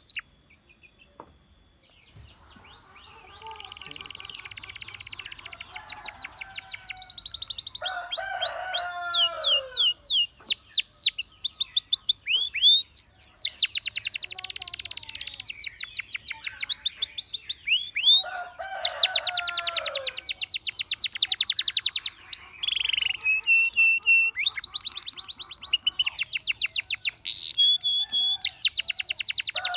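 Domestic canary singing a long, varied song of fast trills and rolls, with quick sweeping notes and a few lower, falling whistles. The song starts after about two seconds of near silence.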